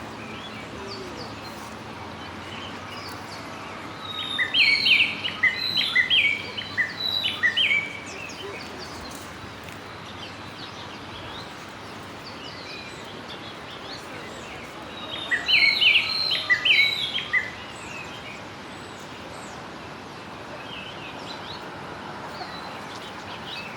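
A songbird singing: two bursts of quick, repeated high chirps, the first about four seconds long a few seconds in, the second shorter about two-thirds of the way through, over a steady outdoor hiss.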